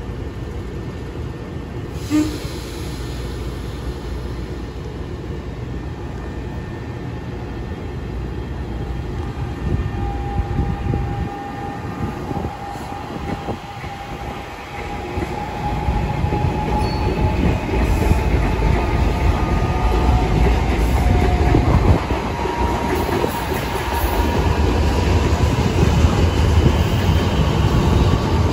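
New Jersey Transit commuter train running past the platform, a steady rumble of wheels on rail. A sharp click comes about two seconds in. A whine sets in from about a third of the way through, and the rumble grows louder in the second half.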